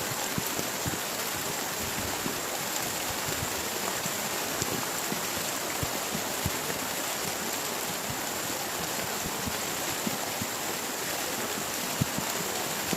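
Heavy rain falling steadily, a dense even hiss with scattered heavier drops tapping throughout.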